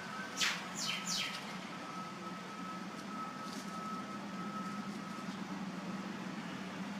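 A bird gives three quick calls that each sweep steeply downward in pitch, about half a second to a second and a half in, with a fainter one a little later. Under them runs a steady low hum.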